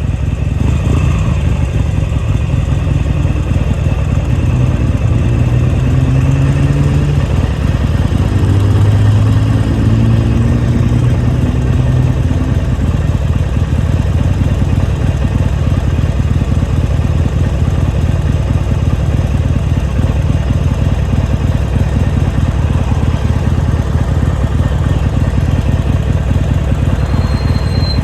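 Motorcycle engine running while being ridden, a steady low drone whose pitch shifts up and down between about four and twelve seconds in.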